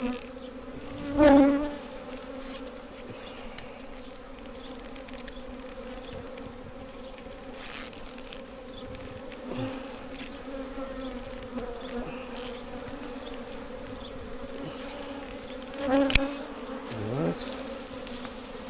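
A swarm of honey bees buzzing as a steady hum, with single bees passing close so the buzz swells loudly about a second in and again near the end, their pitch dipping and rising as they go by.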